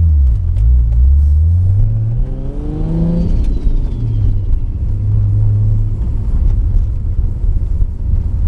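Car engine running with a deep rumble, revving up in pitch about two to three seconds in, followed by a thin whine falling in pitch.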